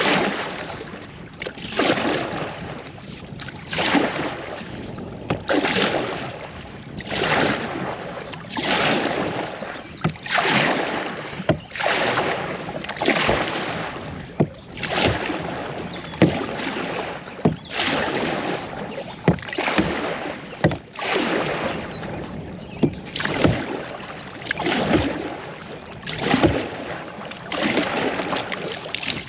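Kayak paddle strokes: the blade dipping and pulling through river water in an even rhythm, one splashing stroke about every second and a half, with a light click now and then.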